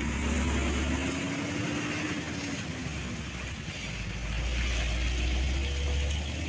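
Heavy diesel truck engine running under load with a deep rumble, its note slowly rising over the first couple of seconds. The rumble swells again in the second half.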